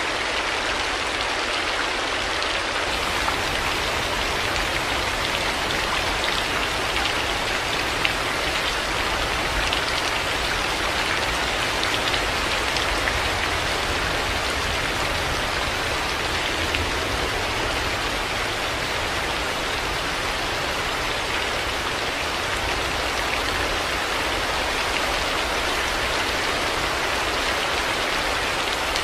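Heavy rain falling steadily as a dense, even hiss, with a few sharper drop ticks standing out.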